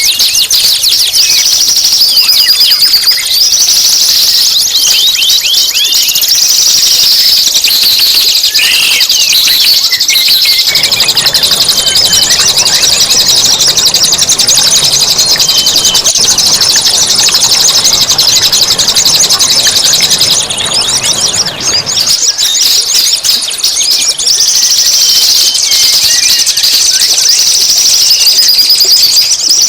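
Songbird song recording: a loud, almost unbroken stream of shrill, rapid high-pitched trills and chirps, of the kind played as masteran to teach caged songbirds. A rushing hiss joins underneath from about ten seconds in until a little past twenty seconds.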